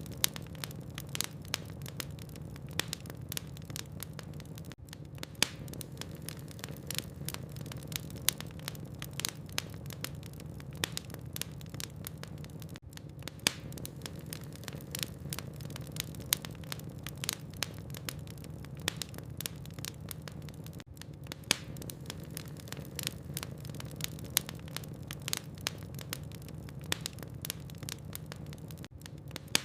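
Wood fire burning in a fireplace: logs crackling and snapping in quick, irregular sharp clicks over a steady low hum.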